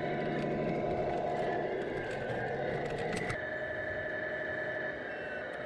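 Semi-truck diesel engine sound from an RC Tamiya Freightliner Cascadia, running steadily, with an abrupt change in its tone a little past halfway.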